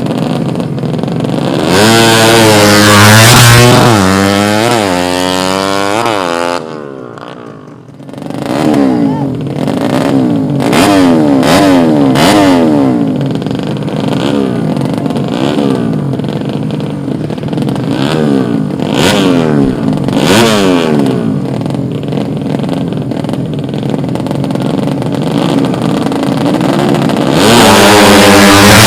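A tuned 130 cc drag-bike motorcycle engine revving hard, the throttle blipped up and down again and again. The sound drops away briefly about seven seconds in, then the revving picks up again.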